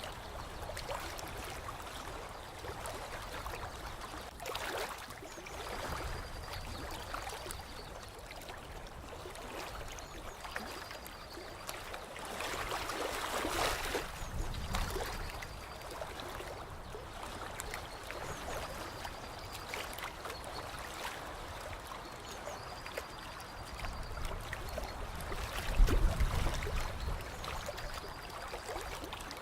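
Water trickling and gurgling steadily. A faint short high note recurs every few seconds, and a low thump comes near the end.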